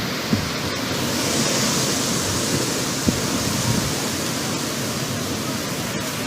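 Hailstorm: a dense, steady hiss of hailstones and rain pelting down, with a few louder knocks of single stones striking.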